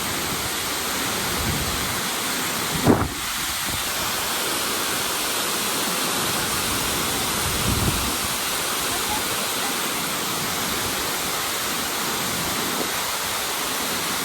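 Tortum Waterfall's heavy water falling in a steady, dense rush. A brief low thump cuts through about three seconds in, and a softer one near eight seconds.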